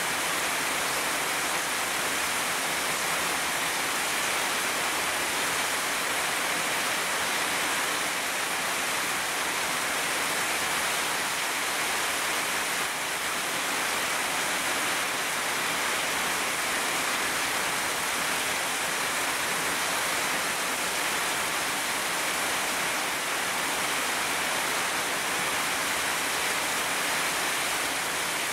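Heavy rain pouring steadily, an even rushing hiss that does not let up.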